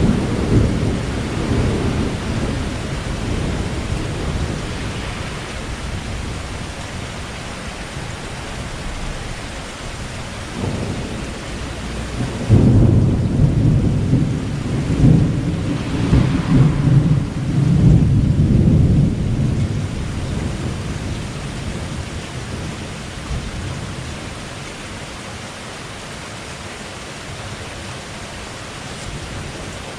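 Thunder rumbling over steady rain. A rumble fades away over the first few seconds, then a louder rolling rumble comes in about twelve seconds in and lasts several seconds, leaving the hiss of rain.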